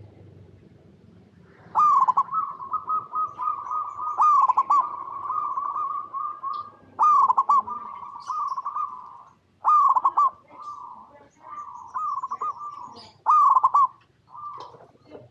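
Zebra dove (perkutut) singing: after a quiet first second or two, a run of rhythmic, trilling cooing phrases, each opening with a loud note and repeating about every two to three seconds.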